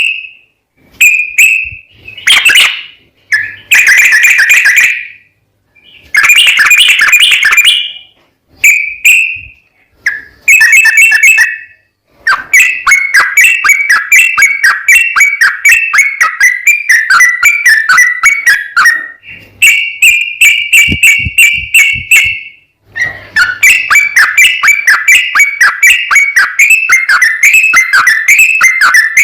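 Yellow-vented bulbul (trucukan) singing loud whistled song. At first it gives short phrases with pauses, then from about twelve seconds in it breaks into long rapid runs of quick falling notes, the chattering 'ropel' song.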